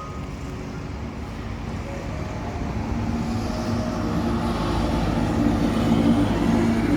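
A motor vehicle going by, its engine noise growing louder to a peak about six seconds in, then easing.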